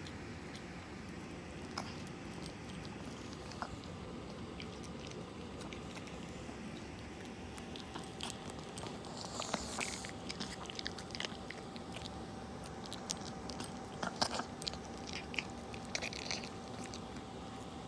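Dog eating its food, chewing and crunching, with scattered crunches and clicks that grow more frequent from about halfway through.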